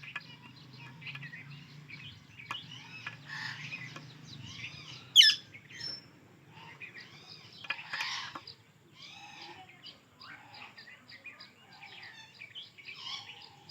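Indian ringneck and alexandrine parakeets chirping in quick, repeated short calls, with one much louder, sharp call about five seconds in.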